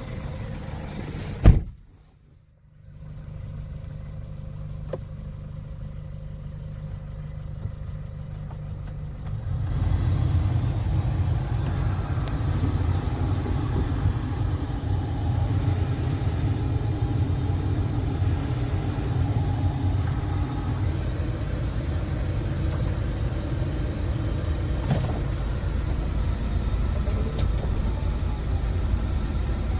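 A sharp knock about a second and a half in, then the steady low rumble of a Kia Bongo III truck's engine and road noise, which grows louder about ten seconds in and holds steady.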